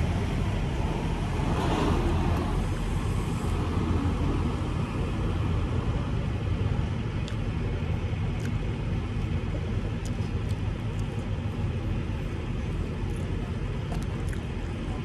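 Semi-truck's diesel engine running steadily, a low even rumble.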